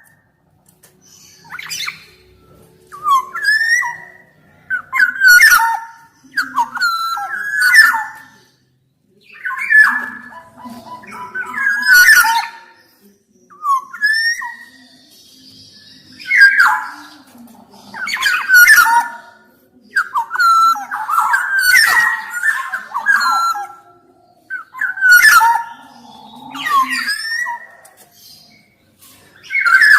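Black-naped oriole (kepodang emas) singing: short fluty whistled phrases that glide up and down, repeated in bursts every couple of seconds, some mixed with harsher notes.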